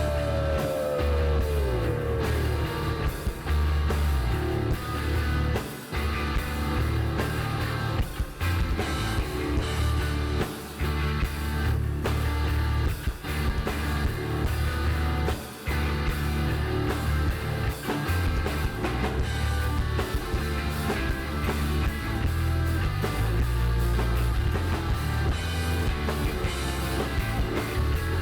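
Rock band playing live: electric guitar, bass and drum kit over a steady beat, with a note sliding down in pitch in the first few seconds.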